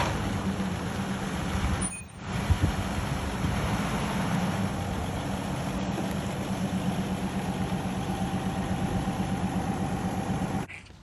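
Toyota Land Cruiser FJ45 pickup's engine running steadily, with a short break about two seconds in and a sudden stop near the end.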